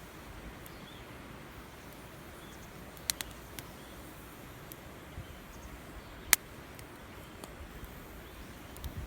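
A few sharp clicks or snaps over a steady outdoor hiss: a pair about three seconds in, another soon after, and one much louder crack a little past six seconds.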